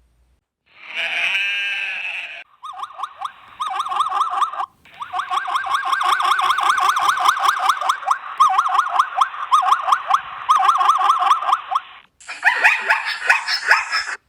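Goats bleating: a run of long, quavering bleats broken by brief pauses, with a different, harsher animal call near the end.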